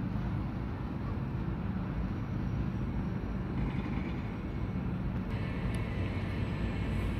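Container freight train running past with a steady low rumble of wheels on rails. Faint high-pitched tones join about five seconds in.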